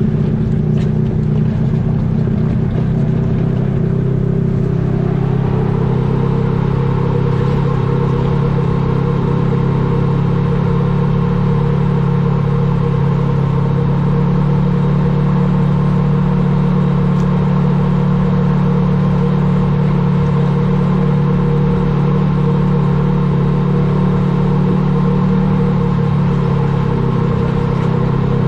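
A vehicle's engine running steadily while driving, its pitch rising slightly about five seconds in and then holding even.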